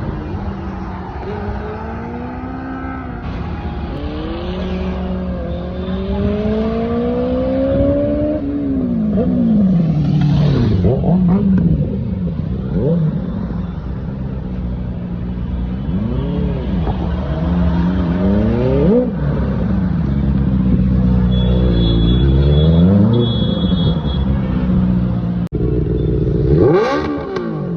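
Benelli 600i's inline-four engine breathing through an SC-Project aftermarket exhaust, revved again and again. Its pitch sweeps up and drops back in quick throttle blips, between stretches of steadier running and a few slower climbs.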